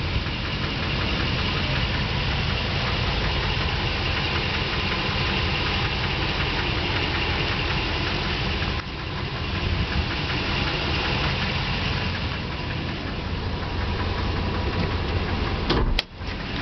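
2007 Nissan Titan's 5.6-litre V8 running at idle with a knocking noise from the engine. A sharp click and a brief drop in level come near the end.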